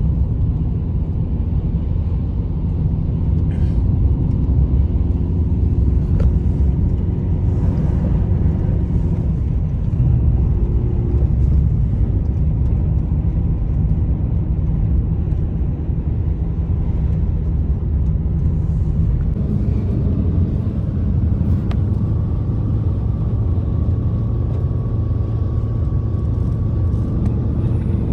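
Steady, loud low rumble with a few faint held tones above it.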